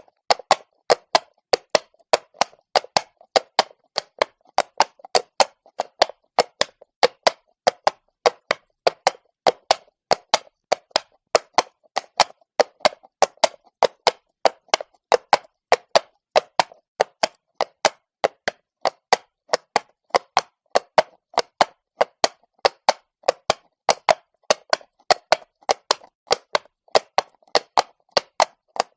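Horse's shod hooves clopping on cobblestone at a steady walk, a regular beat of sharp knocks, about three to four a second.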